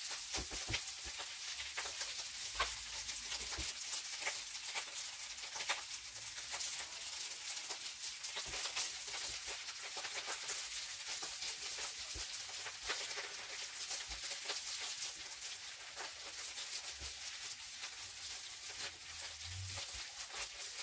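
Diced potato, carrot and uncooked rice frying in butter and oil in a nonstick pan while being stirred with a silicone spatula: a steady sizzling hiss with many small clicks and scrapes. The rice is being toasted in the fat before the water is added.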